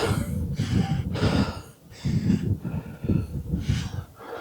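A man panting heavily, close to the microphone, out of breath from climbing a steep hill on foot: rapid loud breaths in and out, a little more than one a second.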